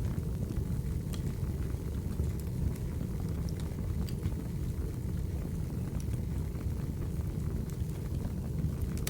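Firewood burning: a steady low rumble with scattered sharp crackles and pops.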